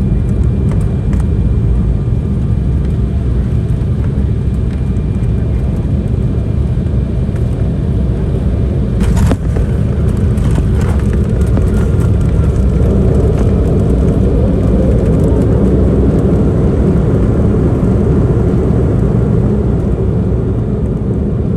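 Steady engine and airflow noise inside the cabin of an Embraer 190 airliner around landing. There is a sharp knock about nine seconds in, and the noise grows louder from about thirteen seconds.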